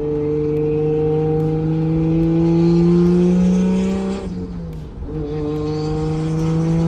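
MK4 Toyota Supra Turbo's 2JZ-GTE twin-turbo straight-six pulling under acceleration, its note climbing steadily, with a faint high turbo whistle over it. Just after four seconds in the note breaks and drops briefly, as at a gear change, then climbs again.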